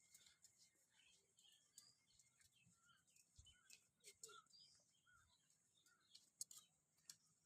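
Near silence with faint, scattered bird chirps and a few light clicks.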